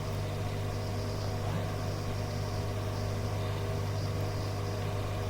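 Steady low hum and hiss of an air-band radio receiver between transmissions, unchanging throughout.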